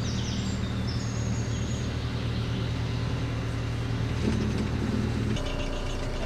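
Canal boat's engine running steadily while under way. A little over five seconds in, the sound switches abruptly to a different, quieter steady hum.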